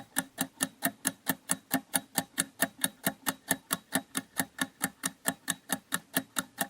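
Ticking-clock sound effect of a quiz countdown timer: fast, even ticks, roughly four and a half a second.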